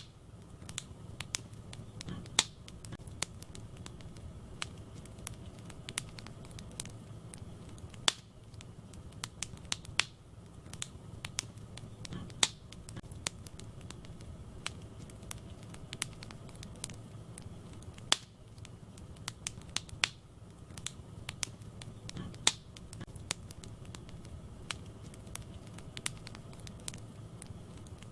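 Wood fire burning in a fireplace, crackling with many small pops and several louder snaps, over a low steady rumble of the flames.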